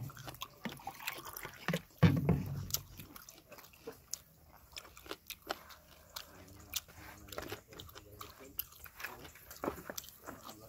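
Close-up eating sounds: people chewing grilled fish and meat picked apart by hand, with scattered short wet clicks. A brief louder sound comes about two seconds in.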